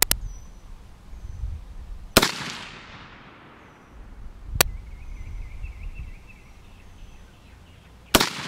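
Rifle shots at a Tannerite target: four single shots, a couple of seconds apart, the second trailing a long echo. No explosion follows; the rounds miss the target a little high and to the right.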